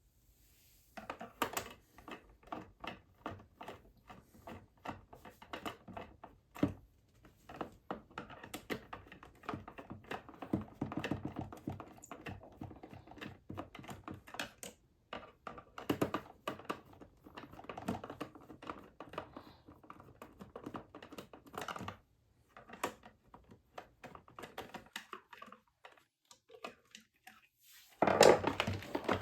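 Plastic fan parts being handled: a long run of irregular clicks, taps and clatter, with a louder burst of clatter near the end.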